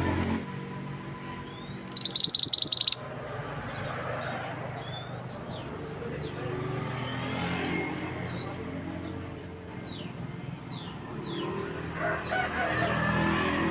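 Mantenan (pied bushchat) singing: a loud, fast trill of about ten high notes about two seconds in, followed by scattered short, thin chirps that slide down in pitch.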